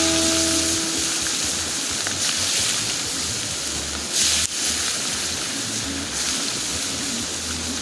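Steady hiss of water, with a plucked-guitar note from background music dying away in the first second.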